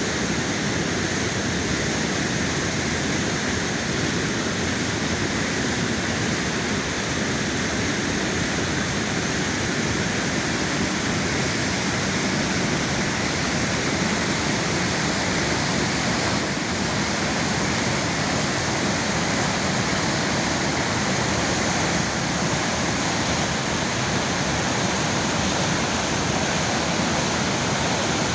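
Girvas waterfall rushing, a loud, steady roar of falling and churning water.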